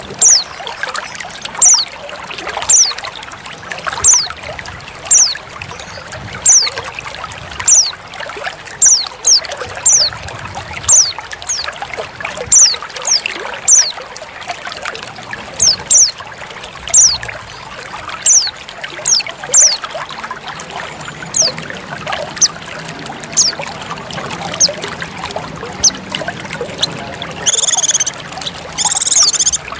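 Female pleci white-eye giving short, high call notes, each a quick falling chirp, repeated about once or twice a second over steady trickling water. Near the end come two longer, fuller calls.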